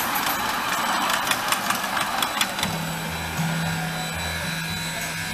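A train running on the rails, a loud rushing noise full of rapid clicks and rattles, which drops away about halfway through. After it come low steady humming notes that step up and down in pitch.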